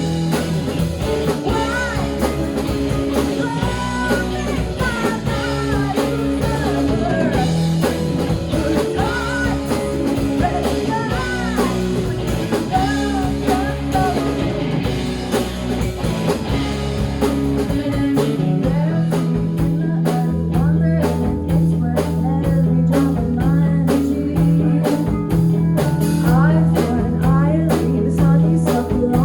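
Live rock band playing an instrumental passage: a lead electric guitar line with bending notes over bass and a drum kit. About two-thirds of the way through the drums get busier and the bass settles on a long held note.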